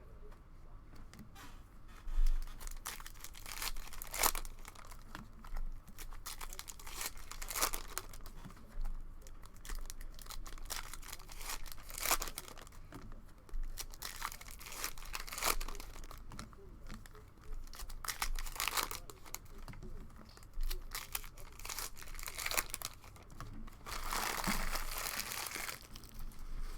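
Cellophane wrappers of trading-card packs crinkling and tearing in a run of short rustles as the packs are opened and the cards handled, with a longer crinkle near the end.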